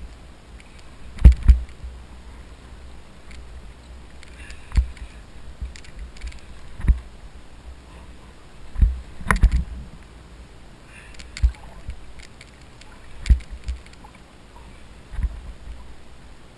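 Kayak on open water: short low knocks, some with a splash, come about every two seconds over a steady wash of water and air.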